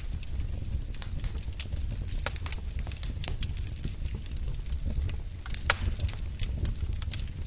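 Wood fire in a fireplace crackling: irregular sharp pops and snaps over a steady low rumble of the flames, with one louder pop a little before six seconds in.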